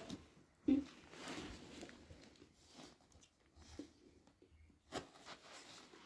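Faint rustling and handling noises with scattered clicks and taps, a sharper click about five seconds in, and a brief low vocal sound just under a second in.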